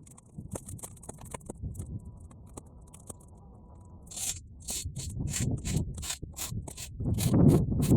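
Bonfire of half-dried weeds crackling and hissing, played at triple speed: scattered sharp crackles at first, then a quick run of short hisses from about halfway. Wind rumbles on the microphone, loudest near the end.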